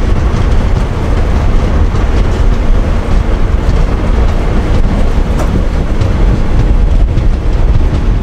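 Vivek Express passenger train running: a loud, steady rumble of the moving coach, heaviest in the deep bass.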